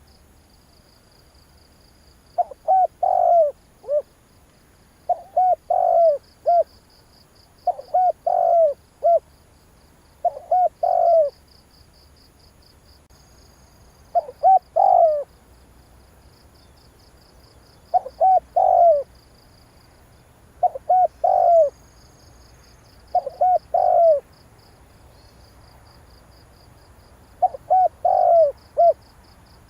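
Spotted dove cooing: a phrase of a few short coos ending in a longer, stronger coo, repeated about every three seconds, the call used to stir up decoy doves. A faint, fast-pulsing insect trill runs underneath.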